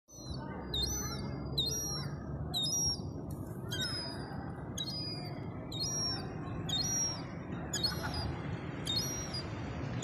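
A bird repeating a short, high-pitched call about once a second, over a steady low background rumble.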